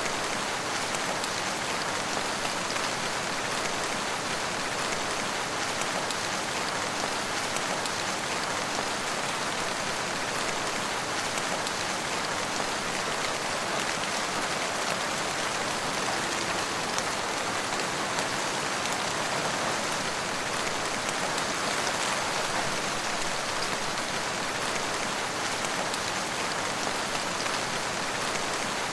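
Steady rain falling, an even hiss with fine patter of drops on surfaces and no thunder.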